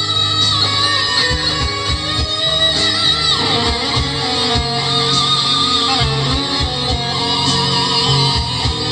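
Lead guitar playing a melodic lick with sliding and bending notes, over a backing track with a bass line.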